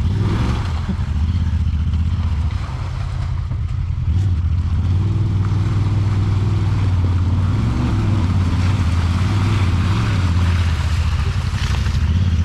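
Side-by-side UTV engine running at low revs, a steady low drone that shifts slightly in pitch now and then.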